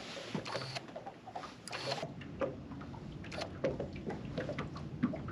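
Faint water lapping against a small boat, with scattered small clicks and knocks from handling gear aboard.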